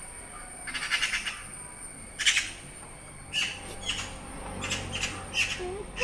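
A bird giving about half a dozen short, harsh squawks spread over a few seconds.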